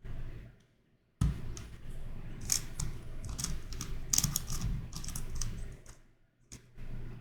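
Plastic twisty puzzle being turned by hand: a YuXin Corner Helicopter 2x2 clicking and rattling as its pieces turn and flip. A sharp knock about a second in starts a fast run of clicks that tails off about six seconds in, with a few more clicks near the end.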